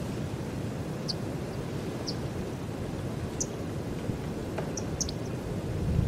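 Small birds giving short, high chirps, about half a dozen scattered through, with a quick cluster near the end, over a steady low rumble.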